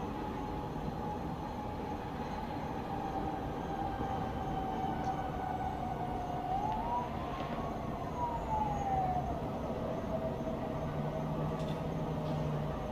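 A distant siren over a steady low rumble of town traffic: a held tone that sinks slightly, swoops up once about six and a half seconds in, then slides back down and carries on lower.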